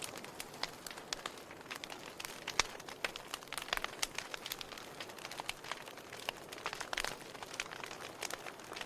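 Wood fire burning, with a steady soft hiss and frequent irregular crackles and pops as the firewood burns.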